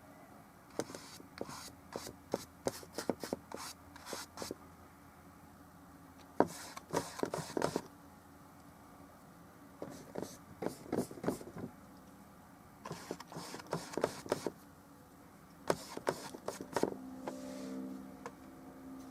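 A brush working oil paint on the painting surface: flurries of quick scratchy strokes and dabs, with short pauses between them. A faint low hum comes in near the end.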